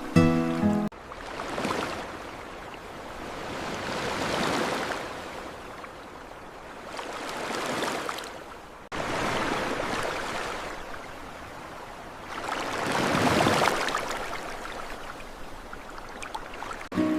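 Ocean waves washing in and drawing back, swelling and fading about every three seconds, with an abrupt cut in the sound about nine seconds in. Music plays briefly at the start.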